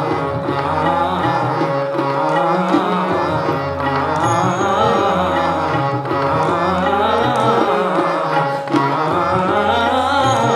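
Aakaar practice in Hindustani classical singing: a voice sings climbing and falling note patterns on an open "aa" vowel, over a looping tabla rhythm and a steady drone note.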